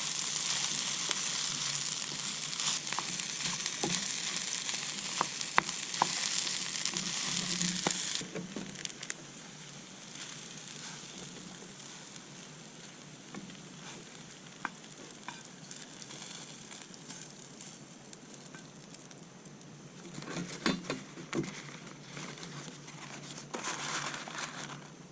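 Garlic rice frying in a pan over a campfire: a loud sizzle with the clicks of a spatula stirring, which drops away suddenly about eight seconds in, leaving a faint sizzle with scattered clicks and two short flurries of clatter near the end.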